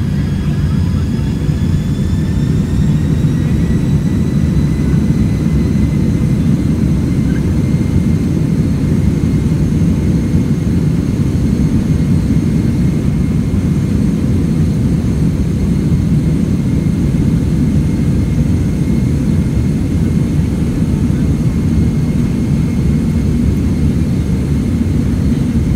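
Boeing 767-300ER jet engines heard from inside the passenger cabin during the takeoff climb: a steady low roar with thin high whining tones. The whine rises slightly over the first few seconds, then holds.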